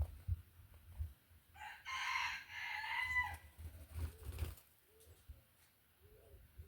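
A rooster crowing once, a single crow of nearly two seconds, followed by a few faint short low calls.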